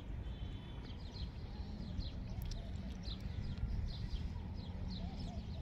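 Small birds chirping over and over, short falling chirps two or three a second, over a low steady rumble.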